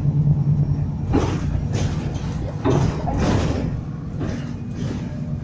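Bus interior noise: a steady low hum that fades out about a second in, followed by several short clattering knocks and rattles.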